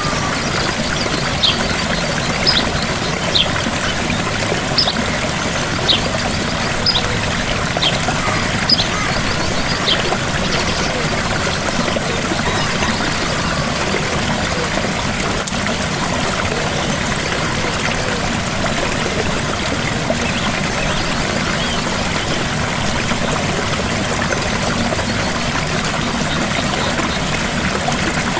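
Gentle waterfall: a steady rush of falling water. Short high chirps come about once a second during the first ten seconds.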